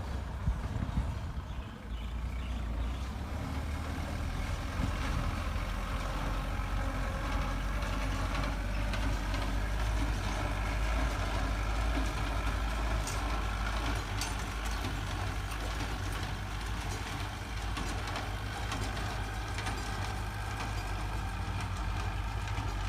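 Straw baler running, a steady engine drone.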